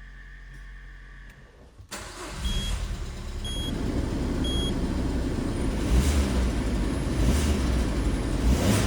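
Citroen C5's 1.8-litre petrol four-cylinder (EW7J4) starts about two seconds in and then runs, growing louder. Three short electronic beeps from the car come just after it fires.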